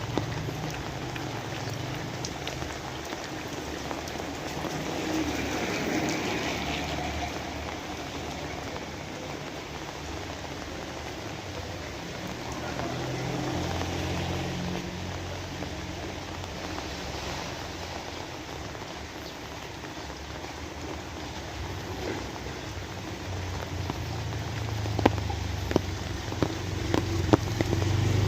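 Steady rain falling, with scattered sharper drips landing on a hard surface. A low engine hum comes and goes, growing louder near the end as a motor vehicle approaches.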